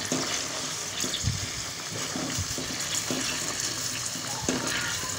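Chicken pieces frying and bubbling in oil and water in a karahi on a high flame, with a few faint knocks of a spatula turning them.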